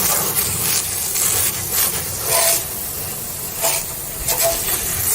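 Hose spray hissing steadily into the bottom trough of a Kinze 800 grain cart, washing a slurry of leftover corn and soybeans along, with several brief louder splashes.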